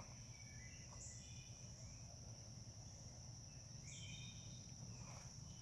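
Near silence with a faint, steady, high-pitched insect chirring in the background and a couple of brief faint chirps, about a second in and around four seconds in.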